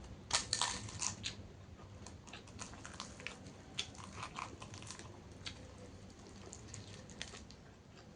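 A person biting and chewing crunchy food close to the microphone. A cluster of loud crunches comes in the first second or so, then smaller scattered crunches and mouth sounds.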